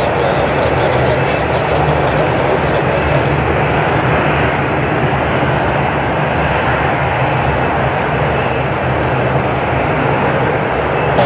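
Jet airliner engines at takeoff power on a departure, a loud, steady, rumbling roar.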